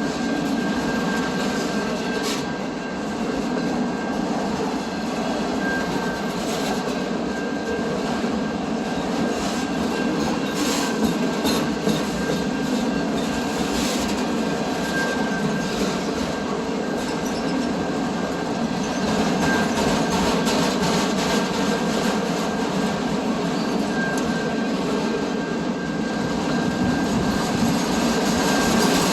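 A train rolling past steadily, with a thin, high, steady wheel squeal running through the rumble and scattered clicks from the wheels.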